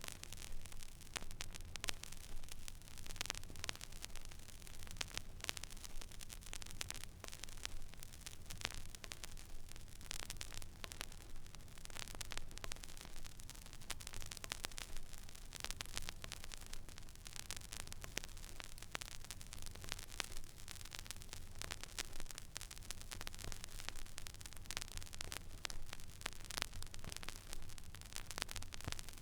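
Stylus riding the empty groove of a vinyl record on a record player: steady surface hiss with constant small crackles and pops over a low hum.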